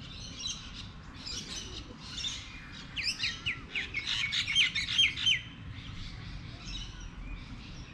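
Small birds chirping, with a loud run of quick, sharply falling chirps about three to five seconds in.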